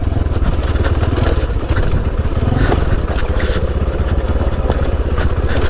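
The small single-cylinder pit-bike engine of a Honda C90 off-road bike running at steady low revs while it is ridden, with a few light clatters over rough ground.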